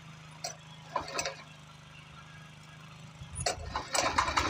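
Tractor engine idling steadily, with a couple of short knocks in the first second or so. Near the end the engine is throttled up and a loud, rapid rattling clatter sets in.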